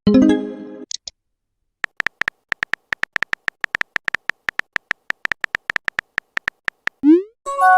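Smartphone messaging sound effects: a chime as a message arrives, then a long run of short keyboard tap clicks, about four to five a second, as a message is typed; a quick rising blip about seven seconds in as it is sent, followed by another message chime near the end.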